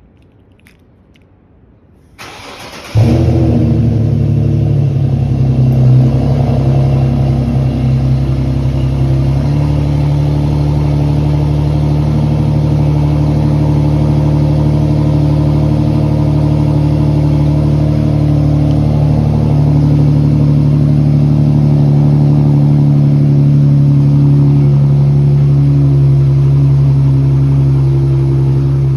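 Car engine with its muffler deleted, cold-started by remote start: a brief crank about two seconds in, then it catches loudly and runs at a steady idle, its pitch shifting slightly about nine seconds in.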